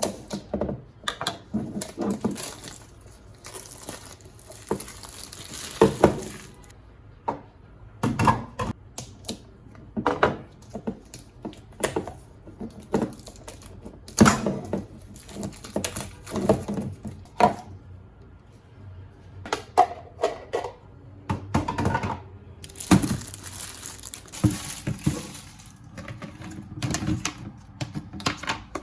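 Kitchen items being handled and set down, giving irregular knocks, taps and clatter, with two stretches of rustling.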